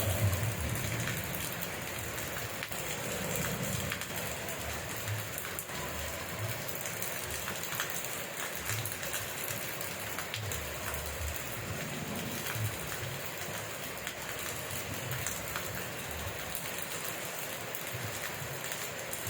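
Steady rain falling on surfaces, with many separate drops ticking and pattering and scattered soft low thuds.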